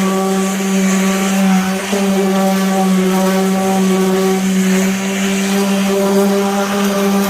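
A 5-inch power sander running steadily with a 6-inch sanding disc on car body panels: a constant hum with overtones over a gritty hiss.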